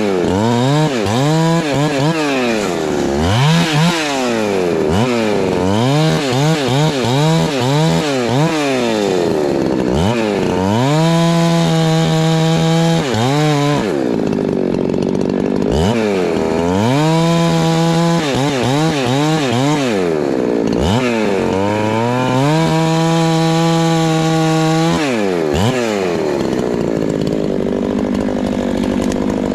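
Husqvarna 390 XP two-stroke chainsaw bucking firewood. The engine revs up and down over and over, holding at high speed for a couple of seconds at a time. Near the end it settles into a steadier sound without the rev sweeps.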